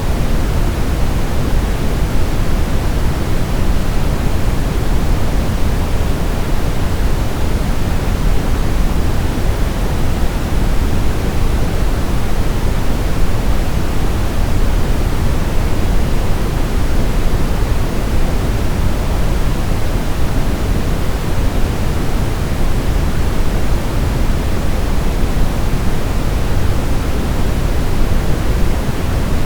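Steady, unchanging brown noise: an even rumbling hiss, strongest in the low end and fading toward the highs.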